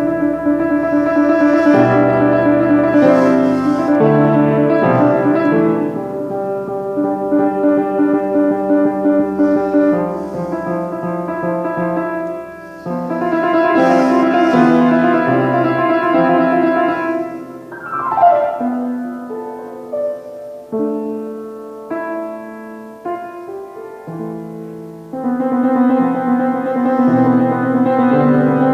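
Piano music with sustained chords. About 18 seconds in there is a quick falling run of notes, then a quieter, sparser passage before the chords fill out again near 25 seconds.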